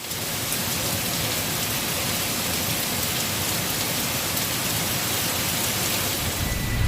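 Steady rain falling, an even hiss with faint drop ticks; a low rumble comes in near the end.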